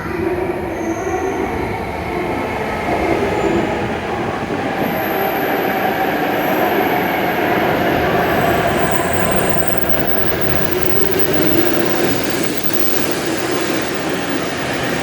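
W7 series Shinkansen train running into the platform, a steady rumble of wheels and running gear. A thin high-pitched whine comes in for a few seconds in the middle.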